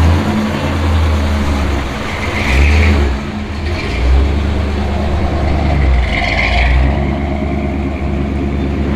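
Muscle car engine with a big, throaty-sounding cam running with a low, uneven idle, its exhaust swelling several times as the throttle is blipped.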